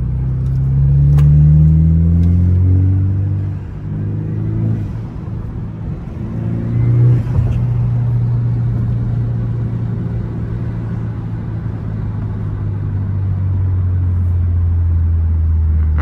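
BMW 428i coupe engine with an aFe intake accelerating through the gears: its pitch rises and drops back at each shift over the first seven seconds or so, then it runs at a steady cruise.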